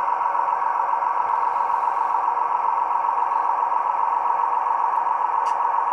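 Gas-turbine locomotive sound from an HO-scale model's Tsunami 2 sound decoder, played through the model's small speaker: a steady, even whining rush with the engine at a low throttle setting. A small click near the end.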